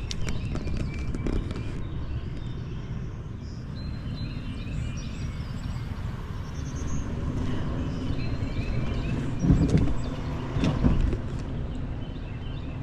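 Steady low rumble of outdoor noise with small birds chirping now and then, and a few louder knocks about two-thirds of the way through.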